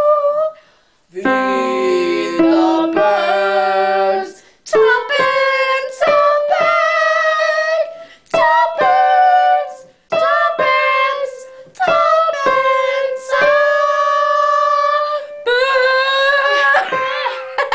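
A woman's voice singing long held high notes in short phrases with brief pauses between them, with lower accompanying notes for a few seconds near the start.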